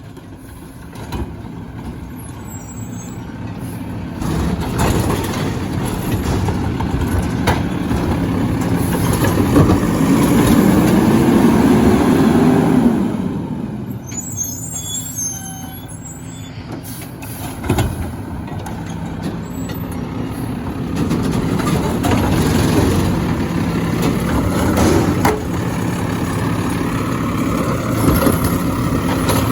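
Garbage truck engine running steadily, with a rising whine about ten seconds in and again near the end, and a few sharp knocks.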